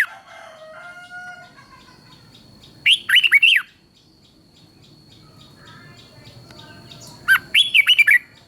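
Red-whiskered bulbul singing: two short, loud phrases of quick rising-and-falling whistled notes, about three seconds in and again near the end. Fainter calls of other birds come between the phrases, and a thin steady high tone runs underneath.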